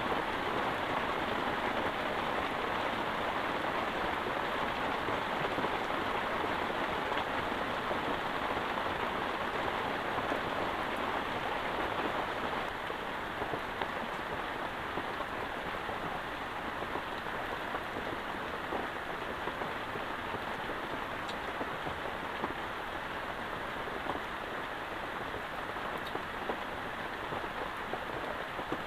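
Heavy rain falling steadily, a dense hiss with scattered drop ticks, easing slightly about twelve seconds in.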